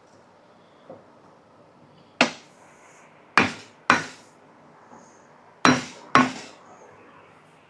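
Hammer blows through a piece of 1x wood board onto a truck rear-end part, used in place of a soft-blow hammer to drive the part home. There are five sharp knocks: one, then two pairs.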